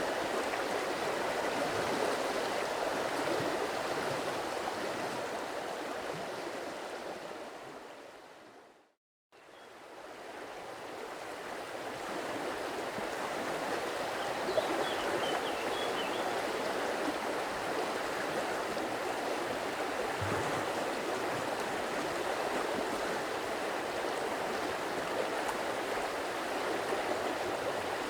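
Steady rush of a flowing stream. About a third of the way in it fades down to silence for a moment and fades back up, the join of a looped recording. A few faint bird chirps come about halfway.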